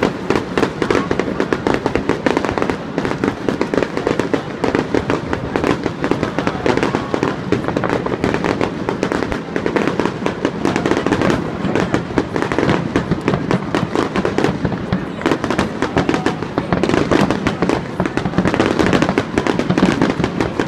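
Fireworks display: a dense, unbroken run of bangs and crackles, many a second, from shells and ground effects bursting.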